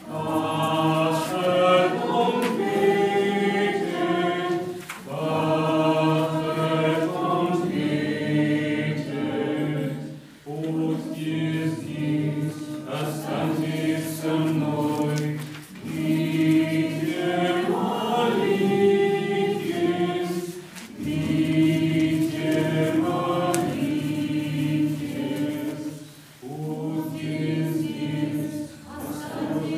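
Church choir singing unaccompanied, in phrases of about five seconds with short breaks between them.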